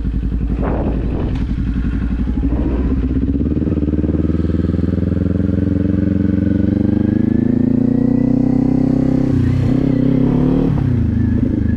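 Kawasaki Z400's parallel-twin engine pulling under way, its pitch rising steadily through a gear for several seconds, then dropping briefly near the end as the rider shifts or rolls off the throttle.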